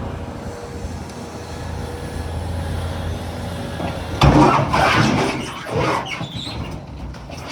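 Volvo EC380EL excavator's diesel engine running steadily. About four seconds in, heavy rocks crash and clatter for a couple of seconds, loading a dump truck.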